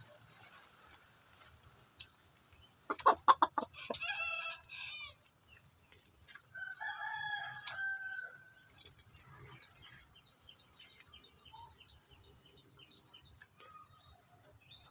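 A village rooster beats its wings in a quick burst of loud flaps about three seconds in, then calls and crows one long crow.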